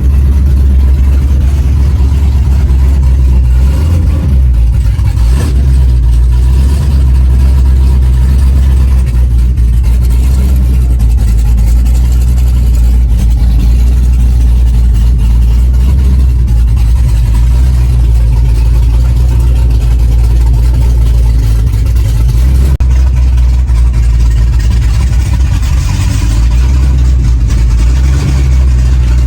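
Cammed 427 LSX V8 idling loudly and steadily through 3-inch straight pipes off ceramic coated headers.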